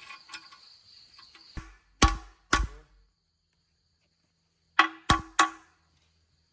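Two sets of three sharp metallic knocks, each with a short ringing tone, like blows struck on a metal part, preceded by lighter tapping.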